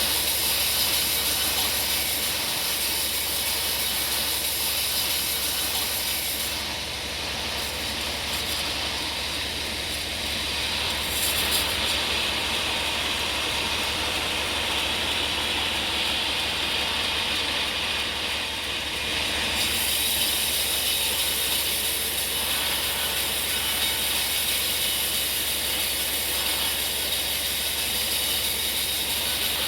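Sawmill saw running steadily and cutting through a log of hard bongkeng wood, a continuous mechanical din with a fast fine rattle underneath. A higher hiss grows stronger for several seconds midway.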